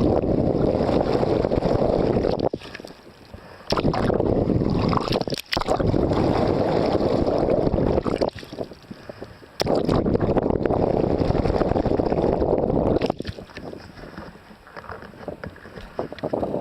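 Wind buffeting a microphone on a sailboat: loud stretches of low rushing noise lasting a few seconds each, which cut in and out abruptly, dropping to a quieter rush for the last few seconds.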